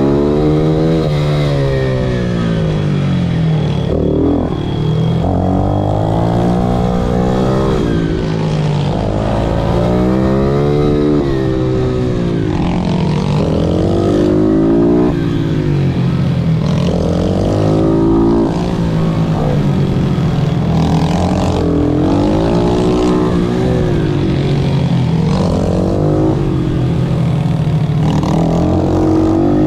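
Pit bike engine at racing pace, rising in pitch on each burst of throttle and dropping back off, again and again every few seconds.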